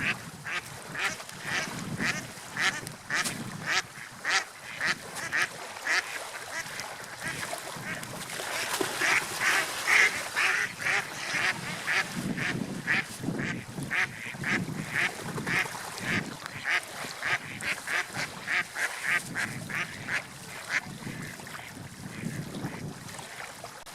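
Birds calling in a long, rapid series of short, harsh calls, about two to three a second, over a steady wash of wind or surf; the calls thin out near the end.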